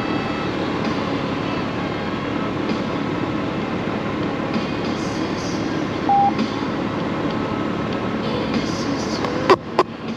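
Honda Gold Wing DCT flat-six engine and wind noise at road speed, a steady drone. A short beep sounds about six seconds in, and two sharp clicks come near the end.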